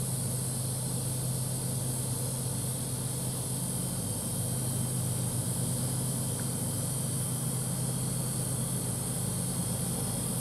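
An engine idling with a steady low hum, under a constant high hiss.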